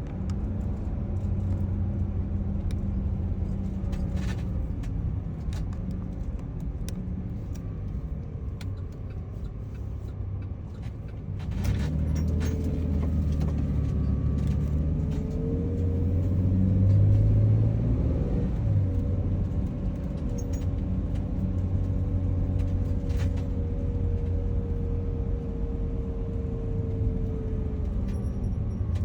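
A van driving, heard from inside the cabin: a steady low rumble of engine and tyres on the road. About twelve seconds in it grows louder, and a wavering whine comes in and holds.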